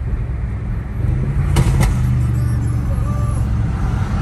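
Audi RS6 Performance's twin-turbo V8, fitted with a very loud exhaust, running at low speed in traffic, heard from inside the cabin as a steady low drone.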